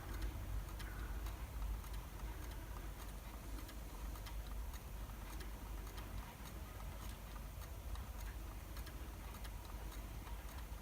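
Faint, irregular ticks or clicks over a low, steady background rumble.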